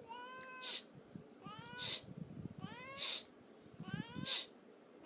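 A cat meowing four times, about a second apart. Each call rises in pitch and ends in a short, loud breathy burst.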